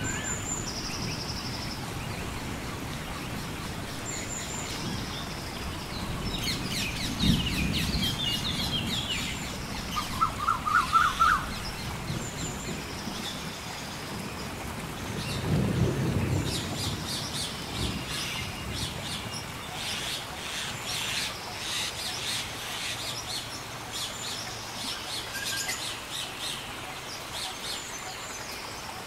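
Steady rain with two low rolls of thunder, about seven and sixteen seconds in, and birds chirping over it. The loudest sound is a quick run of about five rising whistled notes about ten seconds in.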